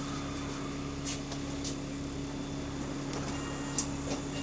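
Bus engine running with a steady low drone, heard from inside the bus, with a few faint rattles; the kind of drone an exhaust leak gives.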